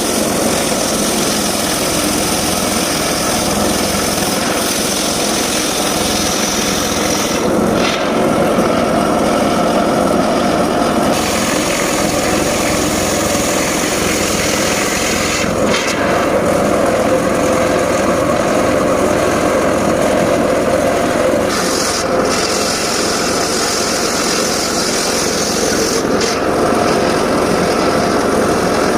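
Homemade circular saw running and cutting coconut-palm wood: a loud, steady machine noise whose high-pitched part drops away for a few seconds several times.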